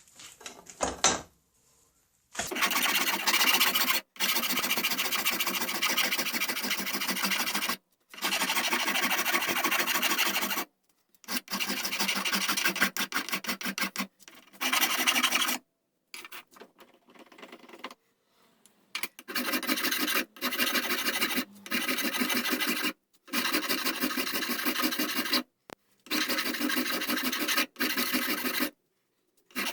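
Wood rasp scraping the wooden gunstock as the buttstock is shaped, in long passages of steady rasping that stop and start abruptly several times.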